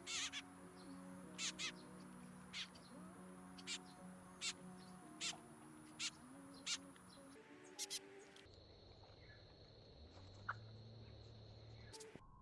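Birds calling in a backyard: a string of short, sharp calls about once a second for the first eight seconds, over faint wavering low tones.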